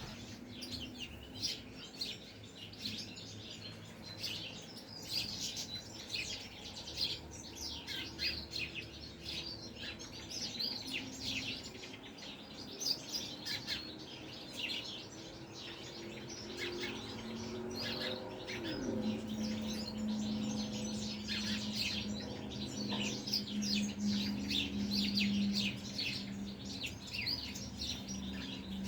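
Caged goldfinches chirping and twittering in many short, quick calls. About two-thirds of the way in, a low tone falls and settles into a steady hum under the birds.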